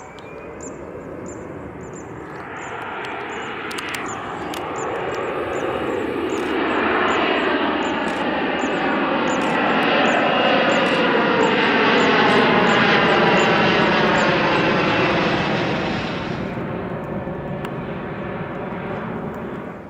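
Twin-engine Boeing 767-300 jet passing low overhead with its engines at power during a go-around. The jet noise builds for several seconds, is loudest for a stretch in the middle with a sweeping whoosh as it passes, eases off, then cuts off suddenly at the end.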